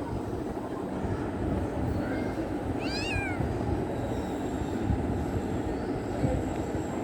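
Kitten meowing: one short cry that rises and falls in pitch about three seconds in, with a fainter call just before it, over a steady low background rumble.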